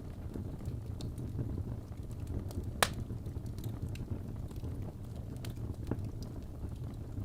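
Wood fire burning in a fireplace: a steady low rumble of flames with scattered crackles and pops from the logs, one sharp crack a little under three seconds in.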